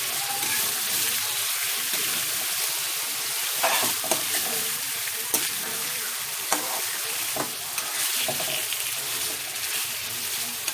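Chicken strips sizzling in hot butter and oil with onion-tomato masala while being stirred, with a utensil clicking against the pan a few times in the middle.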